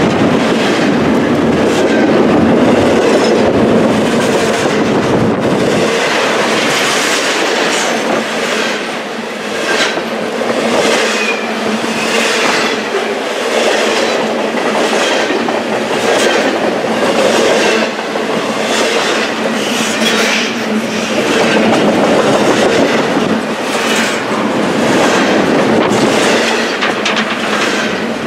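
A train rolling past with a steady rumble, its wheels clacking over rail joints in an even rhythm about once a second.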